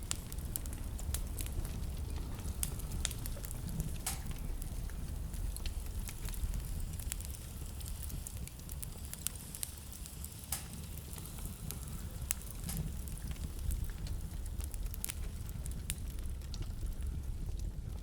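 Wood fire in a fireplace crackling, with irregular sharp pops and snaps scattered through it over a steady low rumble.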